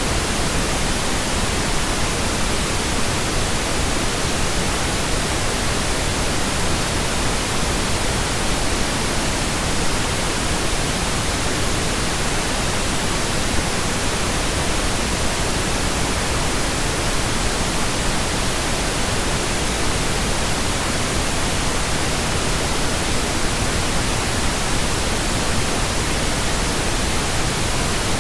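Computer-generated pink noise: a steady, even hiss with no changes.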